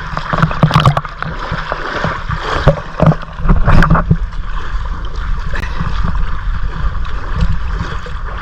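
A small boat running across the water: steady rushing water and rumble, with a few sharp knocks in the first four seconds.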